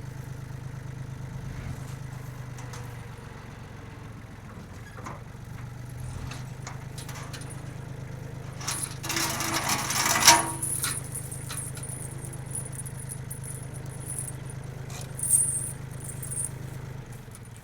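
Yanmar FX20D compact tractor's small diesel engine running steadily, with metallic rattles and clinks. A loud rushing noise near the middle lasts about two seconds and ends in a sharp crack. The engine sound stops just before the end.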